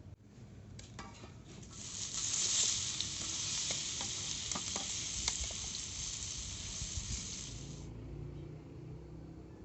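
Food sizzling in hot oil in a frying pan, with a few taps and clicks. The sizzle swells about two seconds in and cuts off suddenly near the end.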